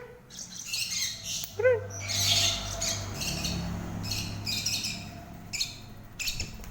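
Pet lovebirds chattering: repeated harsh, scratchy squawks and chirps, with a short rising-and-falling call early on.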